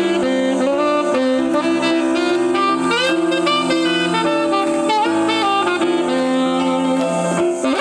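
Jazz band playing live, a wind-instrument melody with runs over sustained backing notes.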